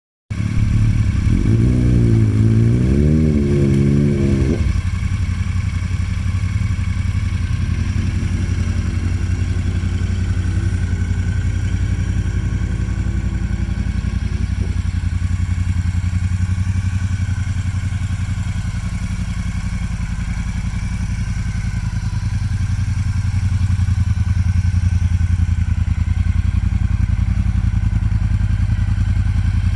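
Motorcycle engine running steadily, its pitch rising and falling a few times in the first few seconds before settling to an even, pulsing idle.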